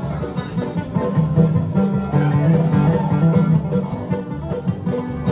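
Live bluegrass band playing an instrumental break between sung verses, banjo and guitar picking to a steady beat.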